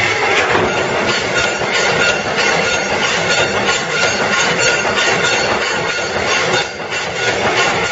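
C-frame mechanical punch press with a CNC feed table running continuously: a dense, loud metallic clatter of rapid repeated strokes, with faint steady high tones running through it.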